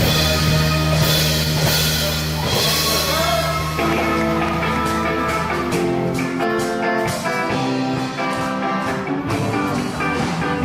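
Live band music: drum kit and guitar with a steady held bass. Around four seconds in it moves into a melodic passage of held notes, with fewer drum hits.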